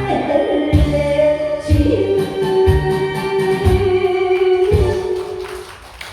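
A person singing over a recorded backing track with a steady beat about once a second, holding one long note through most of it before the music drops away near the end.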